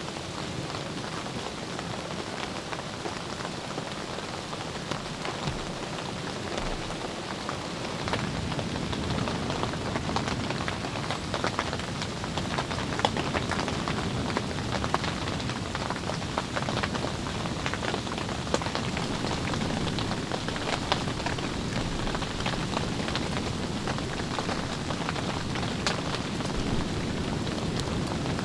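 Rain pattering steadily with many small drop taps, growing a little louder about eight seconds in.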